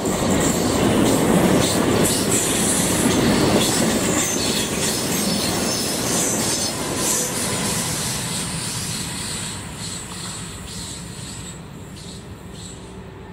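Five-car ETR 521 'Rock' double-deck electric multiple unit passing close by, with wheel and rail noise and a rapid clatter over the track. It is loudest in the first few seconds and fades steadily as the train moves away.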